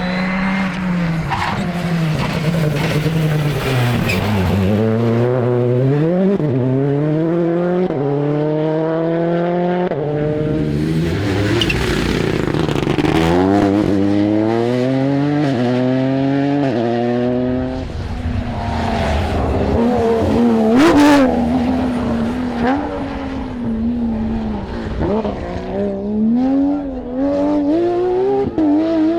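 Rally car engines accelerating hard through the gears at full throttle. The pitch climbs and drops back again and again at each upshift, with short lifts and some tyre squeal in between.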